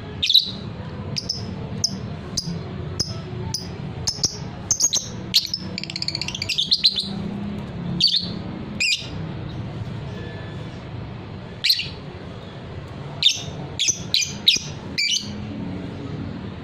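Lovebird giving sharp, high-pitched chirps and short screechy calls in irregular clusters, with a brief rapid chatter a little before the middle, over a steady low hum.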